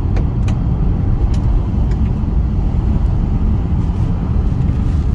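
Steady low road and tyre rumble inside a 2009 Honda Accord's cabin on a rough, loose-chipped road, with several sharp ticks of stones hitting the car, most in the first two seconds. There is no squeak or creak from the newly replaced ball joints and suspension bushes.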